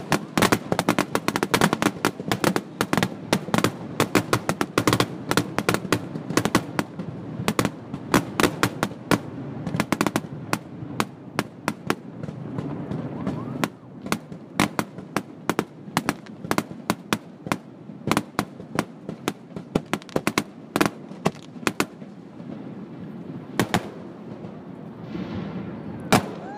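Fireworks grand finale: a rapid barrage of shell bursts and crackling reports, almost continuous at first, then thinning to scattered bangs about halfway through.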